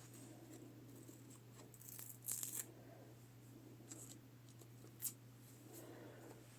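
Faint rustling and handling of paper craft materials, with a short crinkly burst of paper about two seconds in and a small click around five seconds, over a steady low hum.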